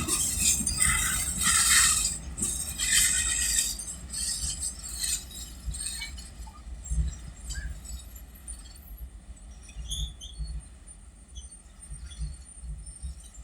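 Goods train of BCN covered wagons rolling past on the rails: repeated metallic clanks and ringing over a low rumble for the first few seconds, fading to a faint rumble with scattered clicks as the train moves away.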